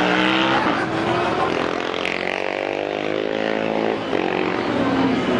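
Racing vehicle engines on a circuit: one engine note falls steadily in pitch for about three seconds as it goes by or backs off, then another engine note picks up near the end.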